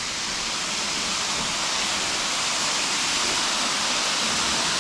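Steady rush of falling water from a rainforest waterfall, growing slightly louder.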